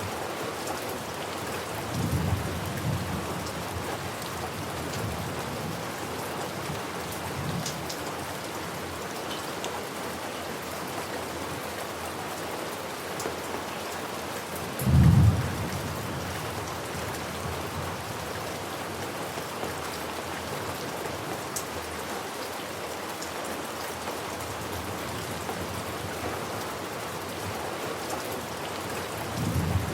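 Steady rain falling, with short low rumbles of thunder about two seconds in, a louder one about halfway through, and another near the end.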